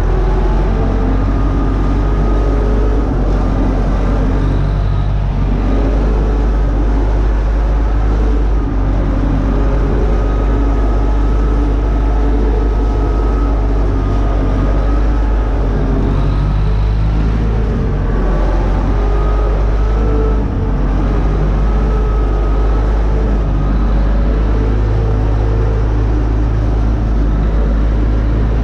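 Universal U650 tractor's four-cylinder diesel engine running steadily under load while pulling a disc harrow.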